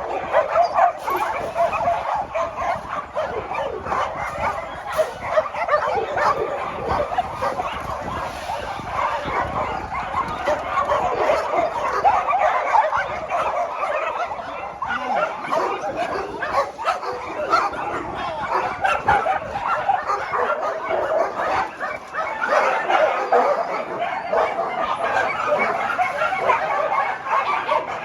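A pack of many dogs barking and yipping at once, a continuous din of overlapping barks.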